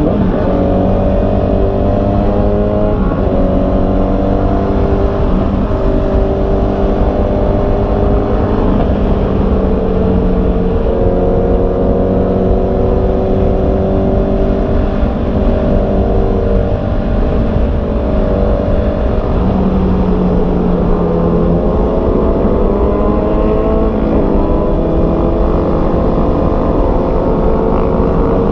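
Honda CB650R's inline-four engine running under way, its pitch climbing slowly and stepping down several times as it works through the gears, over steady wind noise on the microphone.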